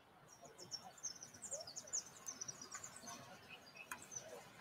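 Small birds chirping in quick, high twittering runs that die down after about three seconds.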